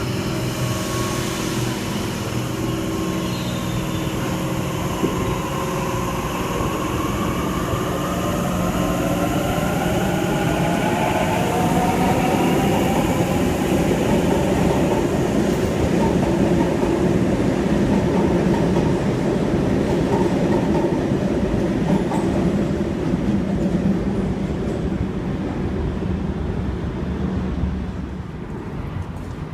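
Sydney Trains double-deck electric suburban train moving along the platform, with a steady rumble and a motor whine that glides up in pitch and back down partway through.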